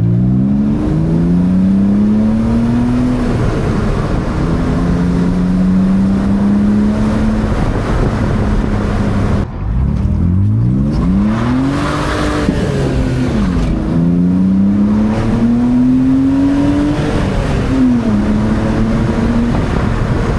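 2000 BMW 328Ci's 2.8-litre straight-six engine accelerating, revs climbing in long pulls and dropping at several gear changes; near the middle it revs up sharply and falls away again before pulling once more.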